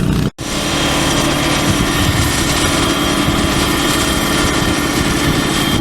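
A construction-site engine running steadily at a constant speed, with a steady high whine over it. Near the start it cuts out for an instant.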